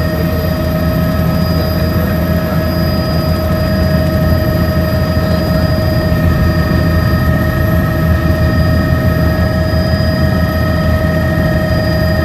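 Helicopter running with a steady, loud, rapid rotor beat and several constant high whining tones above it, unchanging throughout.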